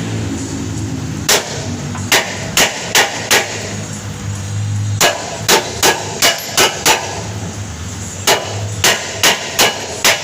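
Hammer blows in quick runs of five or six strikes, with short pauses between the runs, over a low steady hum.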